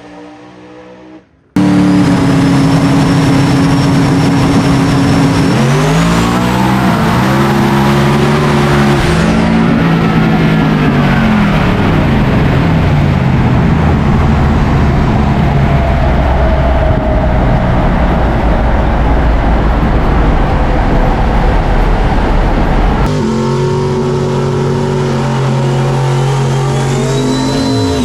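Drag-racing engines running loud. The sound cuts in abruptly after about a second and a half, holds a steady drone, and then the revs dip and climb several times before a dense, sustained full-throttle stretch. Near the end the sound changes abruptly to another steady engine drone.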